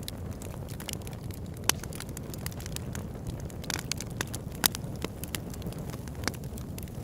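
Campfire crackling: a steady low rush of flame under frequent sharp pops and snaps, with two louder pops, one near two seconds in and one past the middle.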